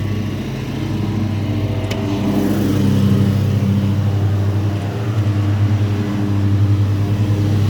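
Riding lawn mower engine running steadily while mowing grass, its hum swelling slightly a few times as the machine moves and turns.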